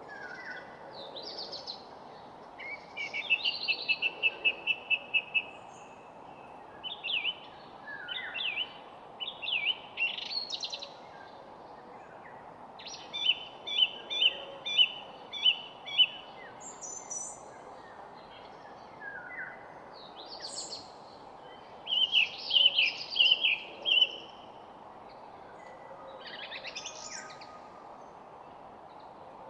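Several songbirds singing over a steady background hiss: phrases of rapid repeated chirps and short trills, with pauses of a second or two between them.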